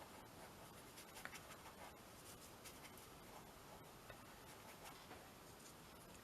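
Faint, soft scratching of a paintbrush applying pink paint to a paper-collaged canvas, with scattered light ticks as the bristles catch the surface.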